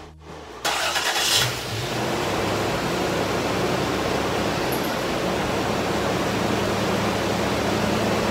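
1995 Toyota 4Runner's engine starting: a brief crank that catches about half a second in, then a steady idle.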